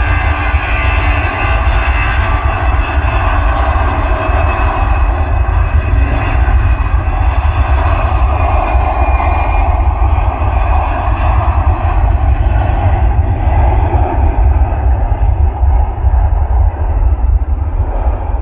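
Four-engine Airbus A340 jet engines at high power for takeoff: a loud, steady engine noise with a deep rumble and several whining tones that fade gradually.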